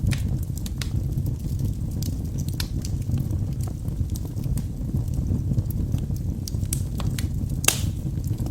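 Wood fire burning in a fireplace: a steady low rumble of flames with scattered sharp crackles and pops from the burning logs, one louder pop near the end.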